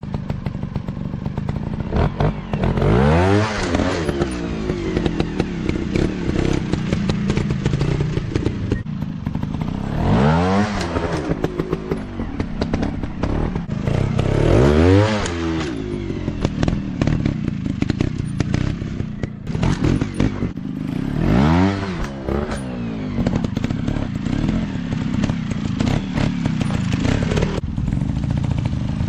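Dirt bike engine revved up and down again and again, its pitch climbing and falling five times, over constant clattering and thumping.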